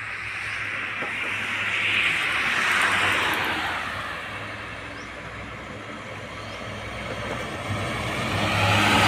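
Road vehicles driving past: a rush of engine and tyre noise swells to its loudest about three seconds in and fades, then a second vehicle comes up loud near the end.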